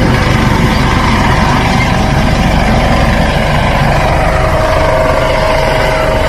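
Military aircraft engines droning loudly and steadily, with a whining tone that rises slightly in pitch near the end.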